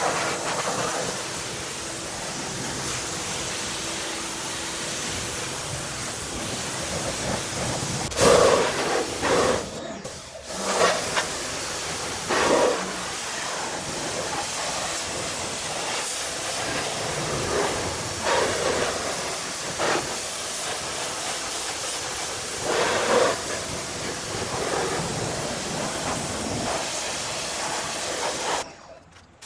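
Pressure washer spray hissing steadily against a wheel and tire, swelling louder several times as the jet moves over the surface. The sound drops out briefly near the middle and again just before the end.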